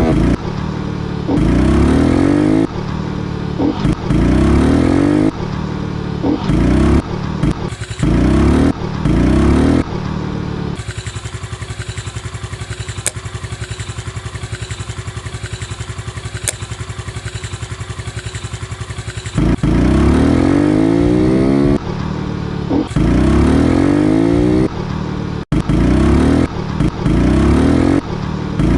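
Honda Pop 110's small single-cylinder four-stroke engine revving up and down repeatedly, settling into a steady idle for several seconds midway before revving again.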